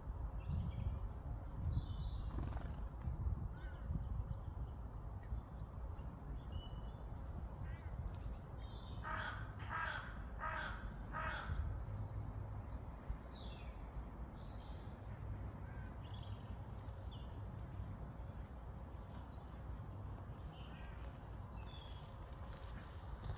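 Birds calling, with many short high chirps scattered throughout. Around the middle a larger bird gives four loud, harsh calls about half a second apart. A steady low rumble runs underneath.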